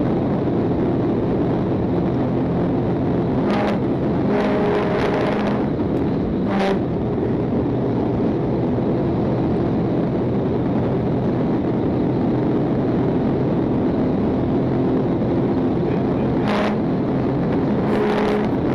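A Georgia State Patrol Dodge Charger pursuit car's engine and road noise running steadily at high speed on the interstate, with a few brief higher sounds about four to six seconds in and near the end.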